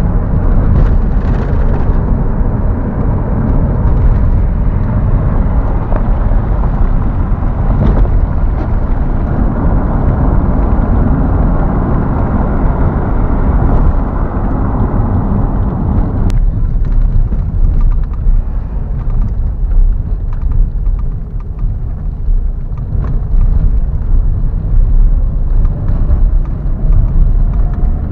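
A car driving over a rough, unpaved village road: a steady, loud rumble of road and engine noise with a few sharp knocks, the higher part of the noise easing a little past the halfway point.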